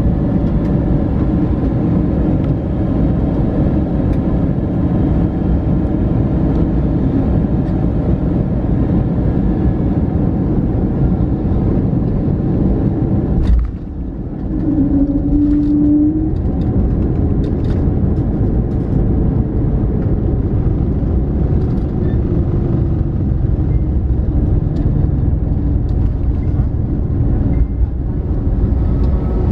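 Cabin noise of an Airbus A321neo rolling on the ground after landing: a steady loud rumble from the engines and airframe. It breaks off sharply about halfway through, after which a faint engine whine rises and falls over the rumble.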